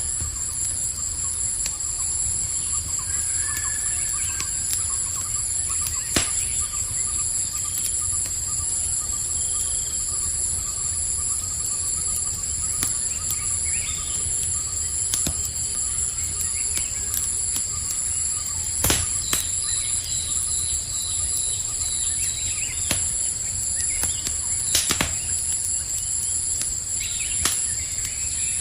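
Campfire burning with scattered sharp pops and crackles, one pop louder than the rest about two-thirds of the way through, over a low steady rumble. Insects trill steadily at a high pitch throughout, with a few faint chirps.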